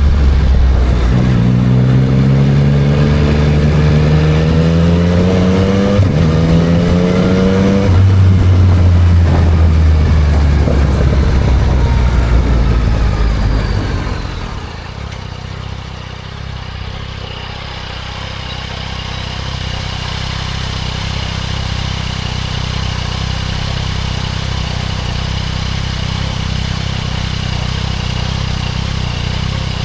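2024 Yamaha MT-09 SP's inline three-cylinder engine through a Spark full aftermarket exhaust: it pulls up through the gears with rising pitch and two upshifts, then the throttle closes and the engine note drops away about halfway in. It then settles into a steady idle.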